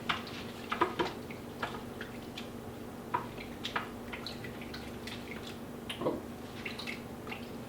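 A spoon stirring noodles, pheasant meat, carrots and chicken stock in a crock pot: irregular light clinks and wet knocks, several a second at times, over a faint steady hum.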